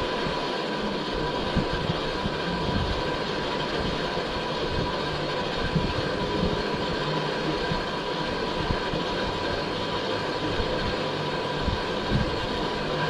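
Steady vehicle rumble and running noise with faint steady tones, broken by a few light knocks.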